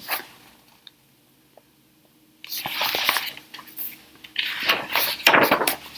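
Paper rustling as a picture book's pages are handled and turned, in two bursts starting about two and a half seconds in.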